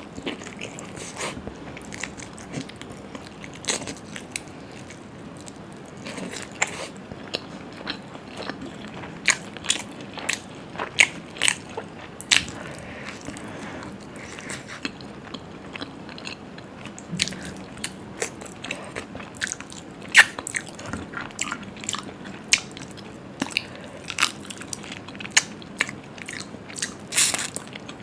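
A person eating close to the microphone: chewing and biting mouthfuls of food, with many sharp, wet smacks and clicks at irregular intervals.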